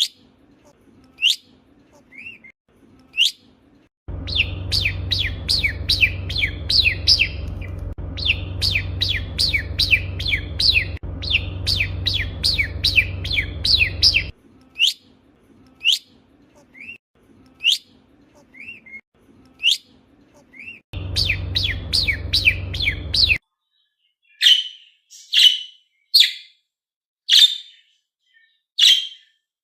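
Pet budgerigars calling: short separate whistled notes every second or two, with two long runs of quick chirping, several notes a second, over a steady low hum. Near the end come harsher chirps about once a second.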